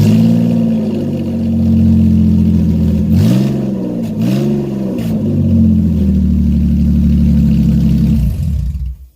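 2005 Infiniti G35x's 3.5-litre V6 running with the Y-pipe removed, so the exhaust exits open right after the high-flow catalytic converters and is loud. It idles, is blipped twice about three and four seconds in, then is shut off near the end.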